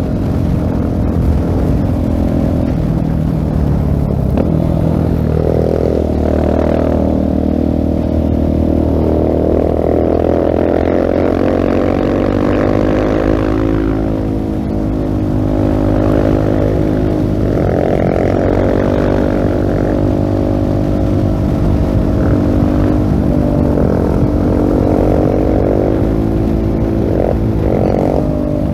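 Single-cylinder engine of a 2016 Husqvarna 701 Supermoto running through a LeoVince full-system exhaust under way. The engine note rises and falls several times as the bike accelerates, shifts and rolls off.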